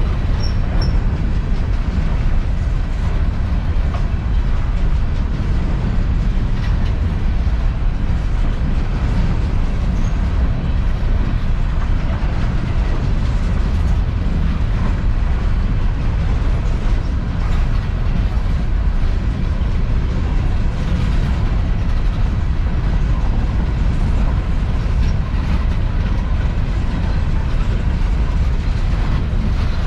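Empty coal train rolling past, its wheels on the rails making a steady, low rumble.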